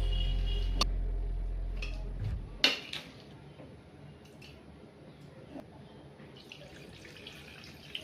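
Quiet kitchen sounds: a few light clinks and taps, with water dripping at the sink. A deep low hum fades out over the first two seconds or so.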